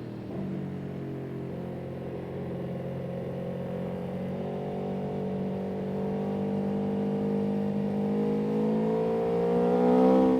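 A vehicle engine running steadily, then accelerating: its pitch and loudness climb gradually through the second half, peaking near the end before the pitch drops suddenly.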